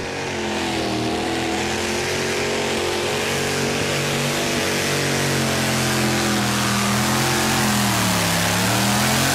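Two-wheel-drive pulling tractor's engine running hard under load as it drags the weight sled down the track, with a hiss over it. Its pitch holds fairly steady, then sags around eight seconds in and picks up again.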